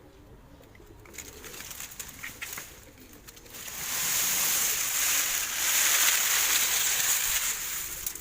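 Pigeons cooing. About three and a half seconds in, a loud, steady hiss rises over them and holds until near the end.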